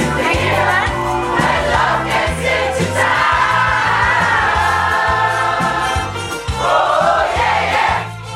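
A pop choir singing a pop song in chorus over bass and a steady beat, with a short dip just before the end.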